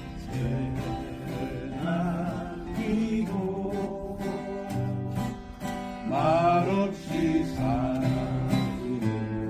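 Acoustic guitar strummed in steady chords, with a voice singing a song over it.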